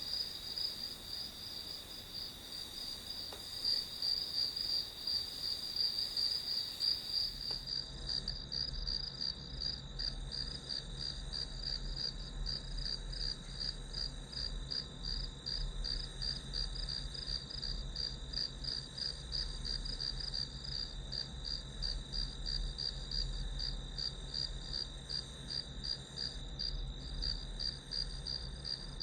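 Crickets chirping in a steady, rapidly pulsing high-pitched chorus. About seven seconds in, a low hum joins underneath and the sound turns slightly duller.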